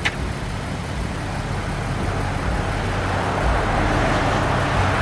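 Car engines running with a steady low hum, and a rushing vehicle noise that grows louder over the second half, as of a car passing close or revving.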